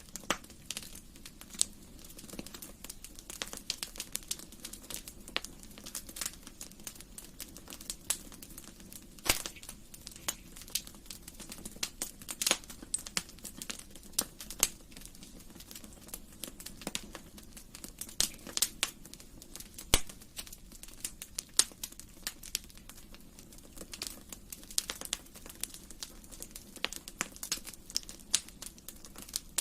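Wood fire burning in a fireplace: a steady low rush of flames with irregular sharp crackles and pops, several a second, a few of them louder.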